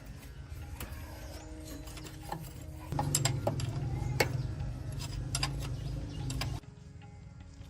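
A machine's low, steady hum with scattered metallic clicks and knocks; the hum grows louder about three seconds in and drops off just before the end.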